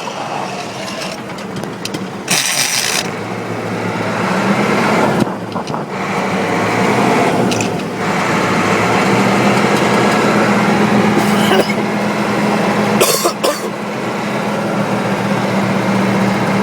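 Naturally aspirated Caterpillar 3208 V8 diesel in a truck with straight dual exhaust, pulling away in low gear under load. The engine note builds, dips briefly twice and then holds steady and loud. There are short hissing bursts a couple of seconds in and again near the end.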